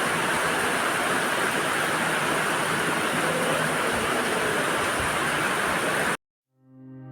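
Heavy rain falling in a steady, dense hiss that cuts off abruptly about six seconds in. After a moment of silence, music with held low tones fades in.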